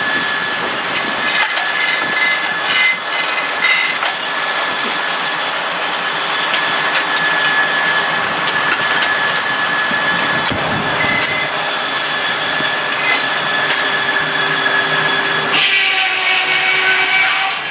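Sawmill running, with a steady hiss and a steady high tone and scattered clicks and knocks. Near the end a steam whistle starts to blow.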